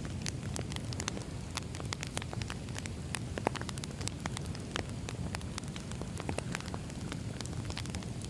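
Firewood burning: a steady low rumble of flames with frequent irregular sharp crackles and pops.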